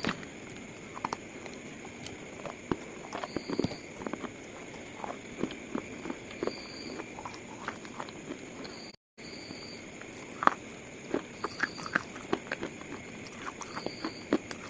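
Slate pieces being crushed, giving irregular small crunches and crackles over a steady hiss. The sound cuts out briefly about nine seconds in, then the crunching resumes.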